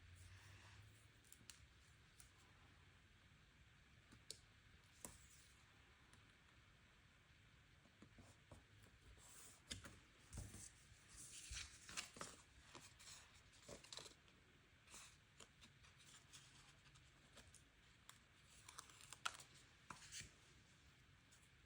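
Faint handling of planner paper and stickers: scattered small clicks, rustles and short scratchy strokes, busiest in the middle and again near the end.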